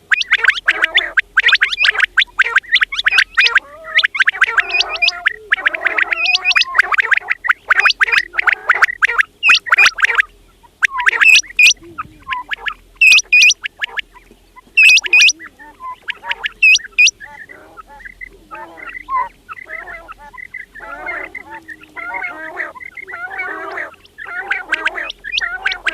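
Quails calling in a dense run of rapid chattering calls. Between about 11 and 17 seconds in come several sharp, high, upward-sweeping calls, after which the chatter turns softer.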